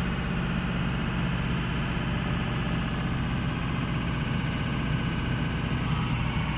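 Diesel truck engine idling steadily, just after a hot restart. The owner traces its slow hot starts to injection control pressure taking too long to build.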